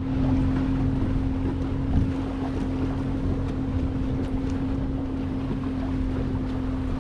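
Boat motor running steadily at a constant pitch with wind noise on the microphone, as the boat runs across the water.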